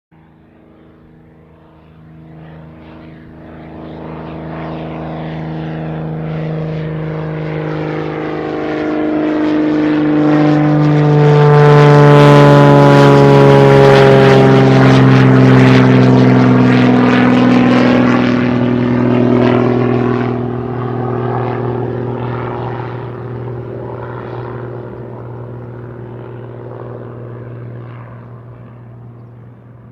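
A plane flying low overhead on its landing approach: its engine noise grows louder to a peak about twelve seconds in, and its whine falls in pitch as it passes and fades away.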